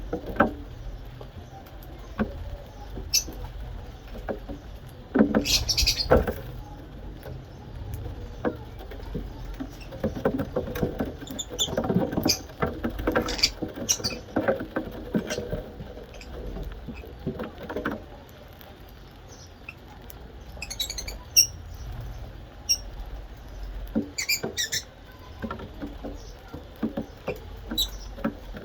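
Small pet birds eating at a dish: scattered pecking taps, scratching and rustling, with a few short high chirps.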